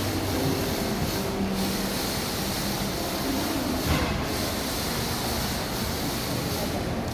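Indoor waterfall: water pouring steadily into its basin, a continuous even rushing hiss.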